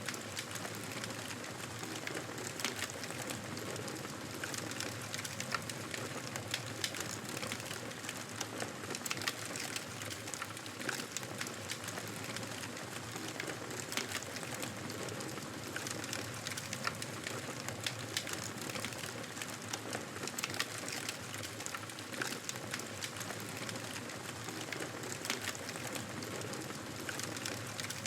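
Wood fire burning in a fireplace: a steady hiss of flames with frequent small, irregular crackles and pops.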